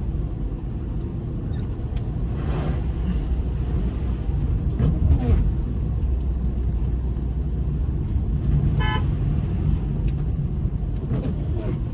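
Steady low road and engine rumble inside a moving Honda City, with a brief vehicle horn toot about nine seconds in.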